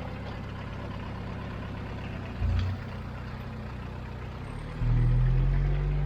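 Homemade mini tractor's VW Golf 1.6 turbo-diesel engine running steadily while ploughing. It surges briefly about two and a half seconds in, then pulls harder and louder near the end, its note rising a little as it takes the load.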